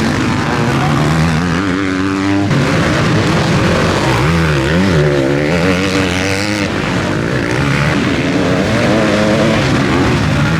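Motocross bikes racing, their engines revving up and falling back as the riders accelerate and shift gears. More than one bike is heard at once.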